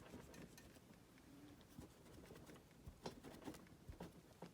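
Near silence, with a few faint light taps and clicks of small craft materials being handled on a table.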